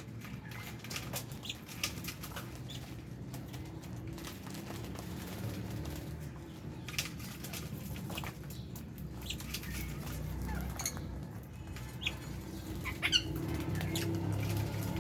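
Aviary lovebirds and budgies: scattered short chirps and clicks over a steady low rumble, with a quick call that glides up and down near the end.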